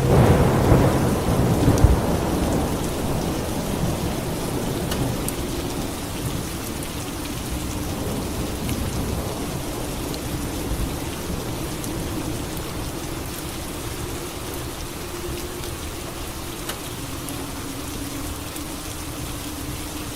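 A thunderclap right at the start, rumbling and dying away over several seconds, over steady rainfall.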